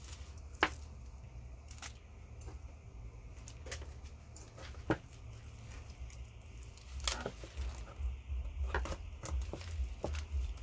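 Scattered clicks and small metal clatters of copper wire and steel parts being pulled from a small electric motor by hand. Underneath is a low bass rumble from a car stereo, which grows louder from about two thirds of the way in.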